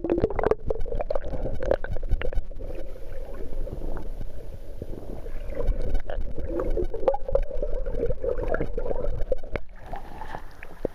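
Muffled gurgling and bubbling of river water picked up by a camera held under the surface, with irregular small clicks and knocks.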